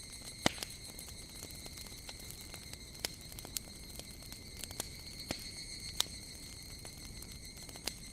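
Wood fire crackling, with several sharp pops. Behind it, higurashi evening cicadas make a steady high-pitched insect drone.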